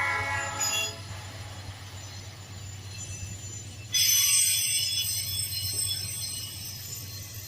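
A passing train: its horn sounds its last note, ending about a second in, over a steady low rumble. About four seconds in, a high, shrill squeal of several tones sets in suddenly and slowly fades, typical of wheel flanges squealing against the rail.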